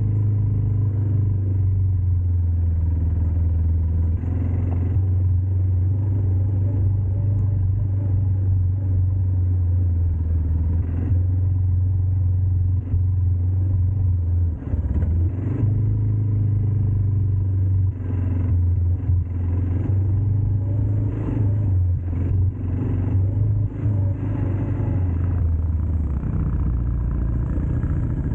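ATV engine running steadily with a low hum, easing off briefly about halfway through, with scattered knocks and rattles.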